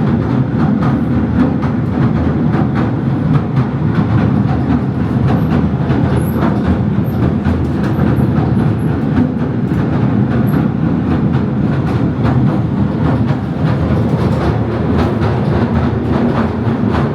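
Southend Pier Railway train running along the pier: a steady rumble of wheels on rails with scattered irregular clicks.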